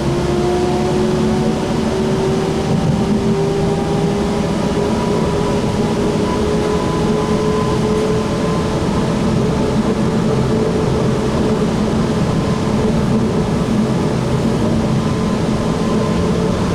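Light rail train heard from inside the car, pulling away: the traction motors' whine climbs steadily in pitch for about the first eight seconds, then levels off over a steady running rumble.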